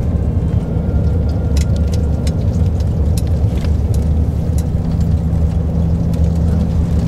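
Steady low rumble of a road vehicle's engine, with scattered small clicks and rattles over it.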